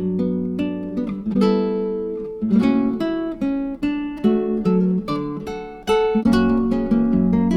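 Background music: acoustic guitar playing plucked and strummed notes that ring on.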